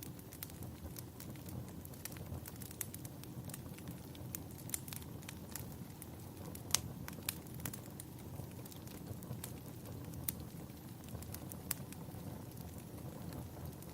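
Wood fire burning in a fireplace: a steady low rumble with scattered sharp crackles and pops, the loudest pop about halfway through.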